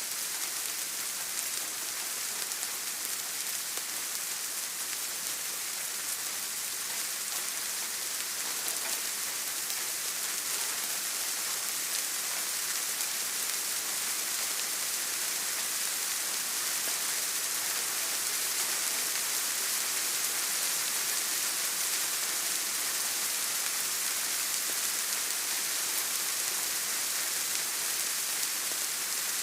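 Steady rain: an even, dense hiss with faint scattered drop ticks.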